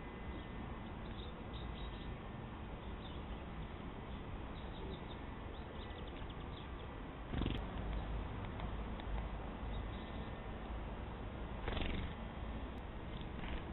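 A cat close to the trail camera's microphone, over a steady low background noise, with two louder brushing sounds about seven and a half and twelve seconds in.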